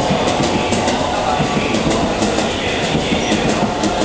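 Sleeper express train pulling into a station platform, with a steady rumble and irregular clacking of wheels over rail joints and points.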